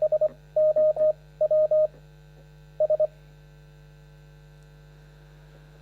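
Morse code sounded as beeps of a single steady tone, short and long, in the first three seconds, over a steady electrical mains hum from the sound system.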